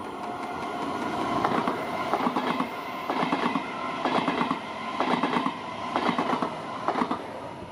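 Stadler KISS double-deck electric multiple unit passing close at speed. A rising rush as it approaches, then a regular clatter of wheels on the rails, one burst about every second as each bogie goes by.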